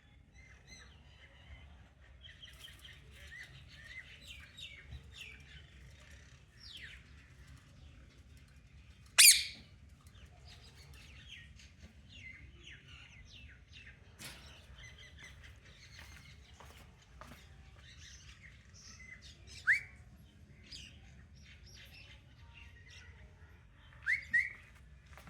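Pet parrot in its cage giving soft, rapid chirps and chattering calls, with one loud squawk about nine seconds in and short rising calls later, two in quick succession near the end.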